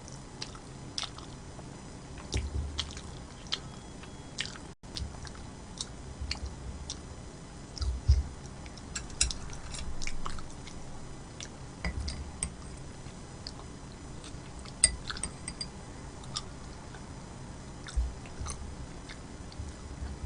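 Close-miked chewing and wet mouth sounds of a person eating, with many scattered sharp clicks and a few short low thuds.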